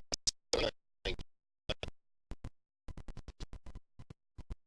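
Choppy, broken-up recording: short snatches of scratchy handling noise cut off again and again by dead silence, many times a second, as the audio drops in and out.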